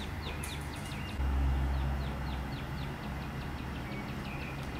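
Songbirds chirping, a quick string of short, high, falling chirps about three a second, over a low rumble that swells about a second in and then eases.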